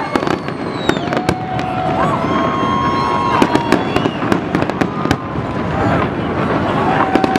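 Large fireworks display: many sharp bangs and crackles over a continuous dense rumble of bursting shells.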